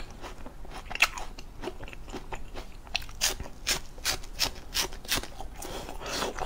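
Close-miked crunching and chewing of a fresh, watery prickly water lily (gorgon plant) stem: a few crisp bites a second at an uneven pace, with a short hiss about six seconds in.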